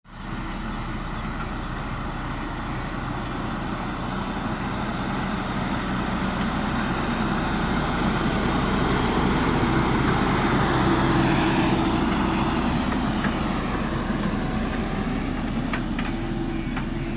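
JCB backhoe loader's diesel engine running under load. It grows louder to a peak a little past halfway, then eases off, with two short metallic clanks near the end.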